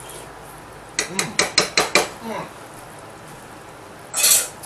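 Metal spoon tapped quickly against the rim of a pan of simmering sauce: about six sharp clicks in a second, starting about a second in, followed by a short hiss near the end.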